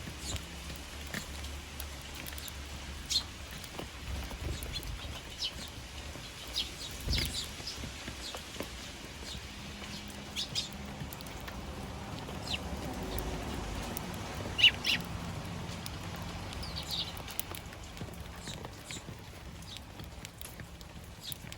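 Eurasian tree sparrows chirping in short, scattered calls, the loudest a quick pair about two-thirds of the way through, over a steady patter of rain.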